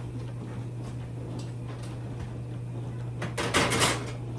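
A steady low hum, then a brief burst of clattering and rustling about three seconds in, as things are handled in a kitchen.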